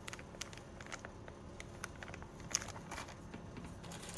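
Plastic packaging being handled, crinkling with a scatter of small clicks and crackles, and one sharper click about two and a half seconds in.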